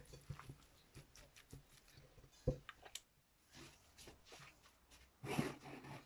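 Light kitchen handling sounds while a wild garlic and cottage cheese filling is prepared: scattered soft clicks and taps, one sharper knock about two and a half seconds in, and a brief rustle near the end.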